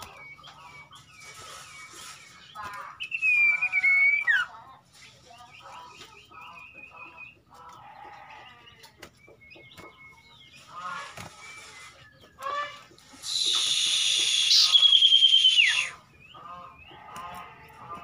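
Common ioras calling: a string of short chirps and whistles, one louder whistle falling in pitch about three seconds in, then a loud, harsh rasping call lasting about three seconds that ends in a sharply falling whistle.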